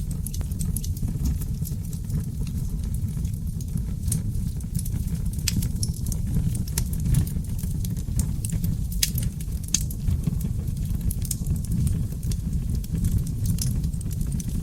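Wood fire burning in a fireplace: a steady low rumble of flames with frequent sharp crackles and pops from burning seasoned oak logs.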